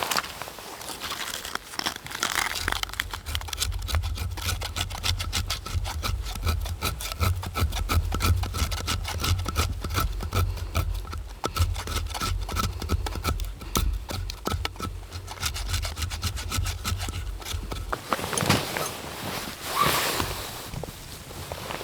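A hand tool working wood in rapid, even rasping strokes, starting a couple of seconds in and stopping near the end, over a steady low rumble. A few separate rustles follow.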